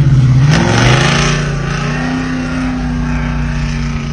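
Car engine being revved: a quick rise in revs about a second in, then held at a steady rev.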